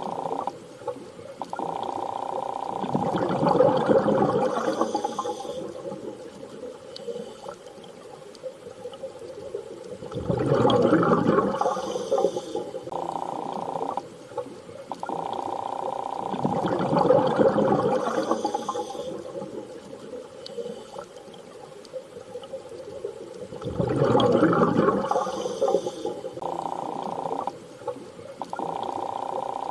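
Underwater sea ambience: slow swells of rushing water noise about every six to seven seconds, with a steady low hum-like tone between them, repeating as a loop.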